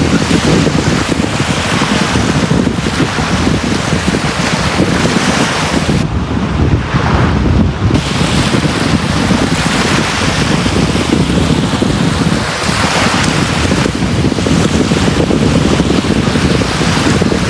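Sea waves breaking on a beach: a continuous wash of surf that swells and falls every few seconds over a steady low rumble.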